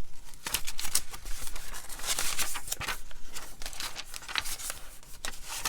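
Paper rustling and crinkling in short, irregular bursts as handmade junk-journal pages and a journaling card are handled and turned.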